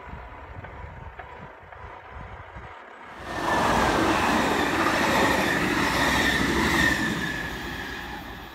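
SBB RBDe 560 'Domino' commuter train passing close: a loud rush of wheels on rail with a steady high whine over it. It starts suddenly about three seconds in and fades as the train moves away.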